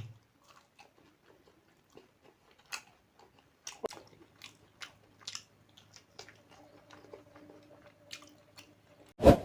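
Close-miked mouth sounds of a person chewing food, with scattered small crunches and smacks. A short, loud hit comes near the end.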